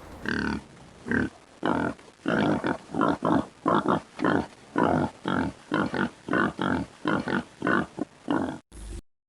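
An animal calling in a rapid series of short calls, about two a second, ending suddenly near the end.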